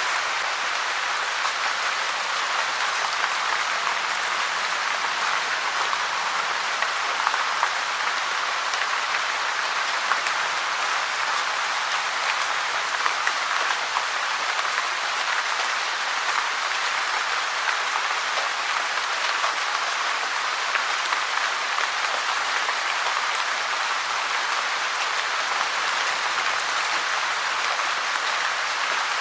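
Steady rain falling: a dense, even hiss of many drops.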